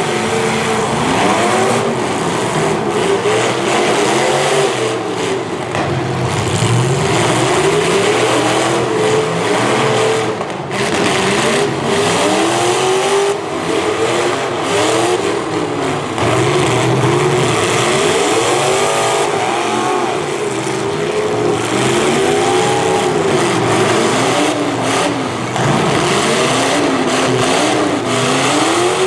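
Several demolition derby cars' V8 engines revving hard, their pitch rising and falling over and over as they accelerate and back off, with sharp knocks of impacts scattered through.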